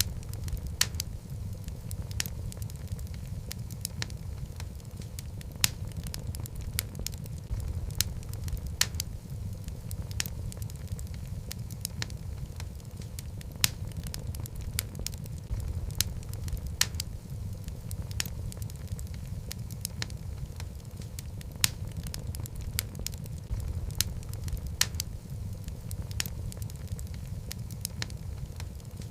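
Log fire burning in a fireplace: a steady low rumble of flames under irregular sharp crackles and pops from the burning wood, a few of them louder than the rest.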